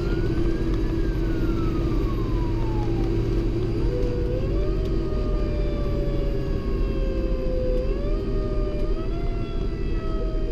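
Fire engine siren in a slow wail, its pitch rising and falling, over the steady drone of the engine and road noise.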